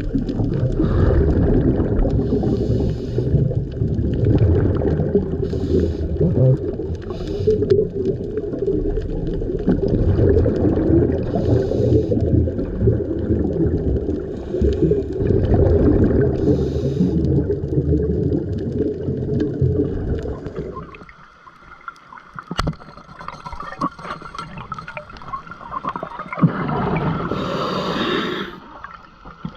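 Underwater sound from a diver's camera: a muffled rush of water with recurring bursts of exhaled scuba bubbles every second or two. About two-thirds of the way through it turns much quieter, then a louder gurgle of bubbles comes near the end.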